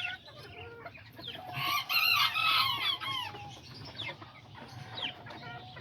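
Kikiriki bantam chickens clucking and calling, with a loud cluster of overlapping calls about two seconds in, then a few short falling calls.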